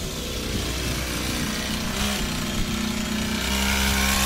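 Mini bike's small engine running steadily, getting louder near the end.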